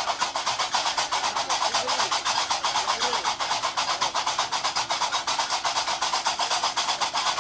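Gnawa qraqeb (iron castanets) clattering in a fast, even rhythm of about seven strokes a second.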